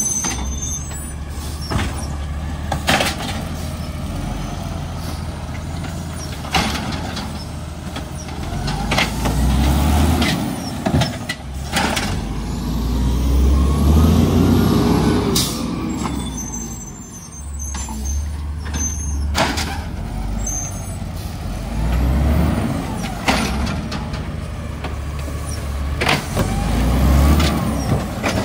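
Heavy garbage truck working: its engine revs up and falls back again and again, with sharp knocks and clanks scattered throughout and a brief high squeal a little past halfway.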